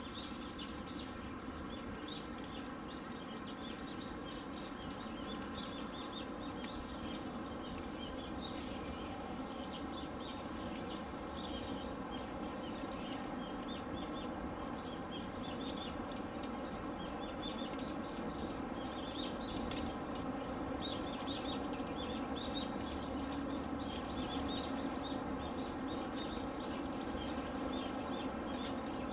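Small birds chirping in many short, quick calls over a steady mechanical hum.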